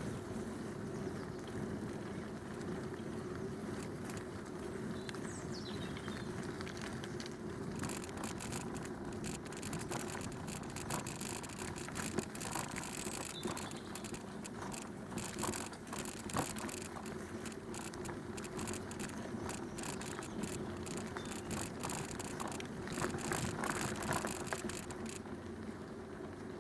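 A bicycle being ridden along a canal towpath: steady tyre and riding noise, with a patter of sharp clicks and rattles through most of the middle stretch. It is the kind of rattle from the bike that the rider says he is still working to cure.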